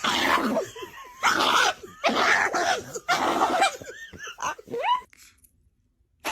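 A dog barking and whining: four loud barks in the first few seconds, then a few short rising whines, stopping about five seconds in.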